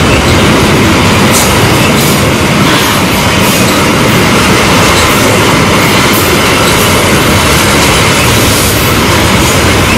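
Freight train's flatcars, loaded with steel coils, rolling past close by: a loud, steady rumble and rattle of steel wheels on the rails, with repeated clacks over the rail joints.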